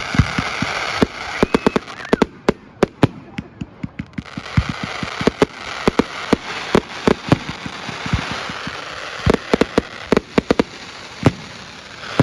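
Fireworks display: many sharp bangs going off at irregular intervals, some in quick clusters, over a continuous crackling hiss.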